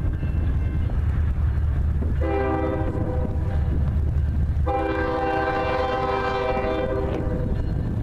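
Diesel locomotive rumbling past while its multi-tone air horn sounds twice: a short blast about two seconds in, then a long one from about five to seven seconds.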